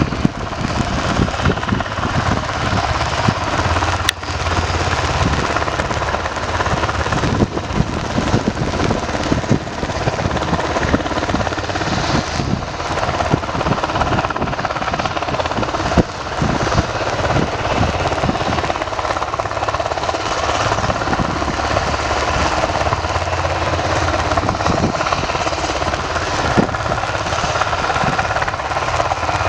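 UH-60 Black Hawk helicopter running: steady turbine and rotor noise with a fast, continuous rotor chop.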